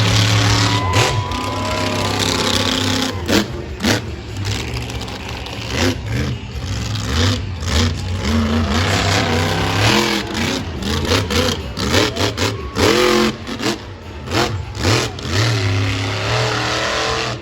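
Monster truck engine revving hard over and over, its pitch rising and falling, with many short sharp cracks through it.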